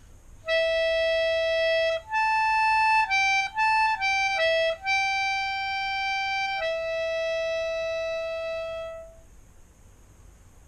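Melodica playing a slow improvised single-note melody: a long held note, a quicker run of short notes, then two more long held notes, the last one ending about nine seconds in.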